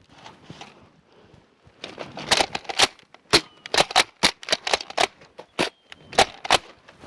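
A quick irregular series of sharp plastic clacks and snaps, about three a second from roughly two seconds in: spring-powered Nerf blasters being primed and fired.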